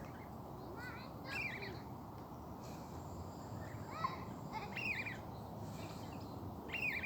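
Birds chirping in short, scattered calls: a few about a second in, more around four to five seconds in, and another near the end, over a steady low background hum.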